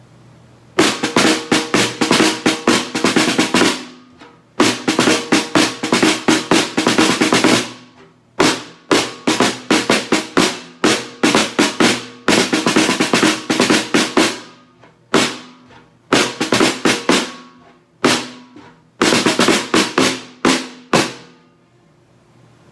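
Snare drum (tarola) played as a marching cadence: phrases of quick strokes and rolls, each one to three seconds long, with short pauses between them.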